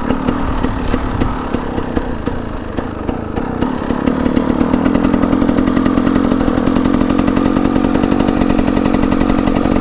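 KTM 300 EXC two-stroke dirt bike engine running as it is ridden, uneven at first, then pulling steadier and louder from about four seconds in.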